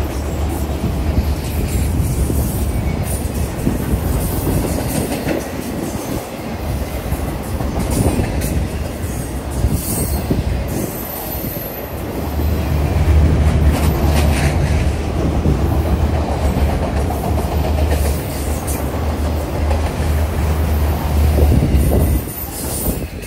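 Freight train of autorack cars rolling past close by: a steady rumble of steel wheels on rail, with brief high-pitched wheel squeals. The last car passes near the end and the noise drops off.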